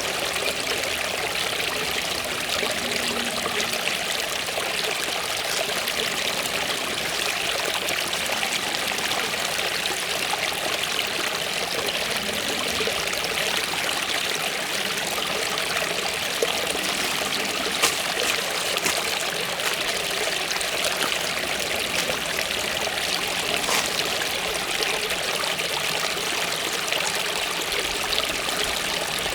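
Waterfall water falling and splashing in a steady, even rush, with small splashes and drips now and then.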